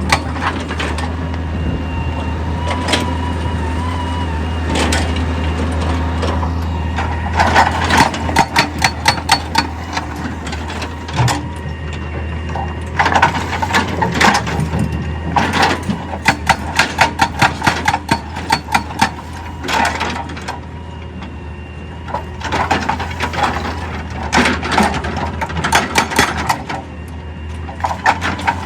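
Excavator's diesel engine running steadily, with several bursts of rapid, evenly spaced metallic impacts.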